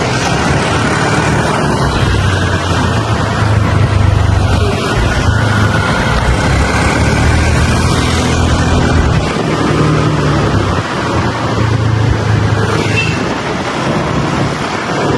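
Motorbike ride through city traffic: steady wind rushing over the microphone, with a low engine hum underneath that comes and goes.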